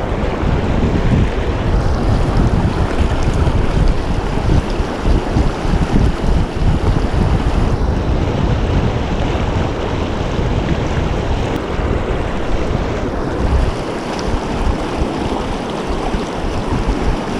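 Steady rushing of a fast mountain river, with wind buffeting the microphone in uneven low gusts.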